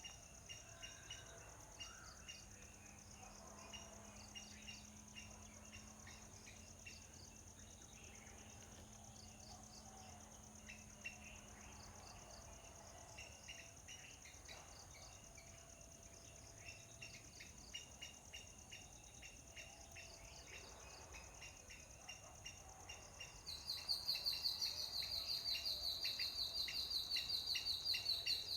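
Outdoor ambience with a steady high insect buzz and small birds chirping in short repeated notes. A much louder pulsing insect trill starts suddenly near the end.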